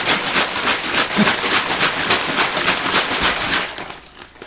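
Plastic gallon zip-top bag of salt, sugar and water being shaken and squeezed to dissolve the brine, the plastic crinkling in rapid even strokes several times a second, dying away near the end.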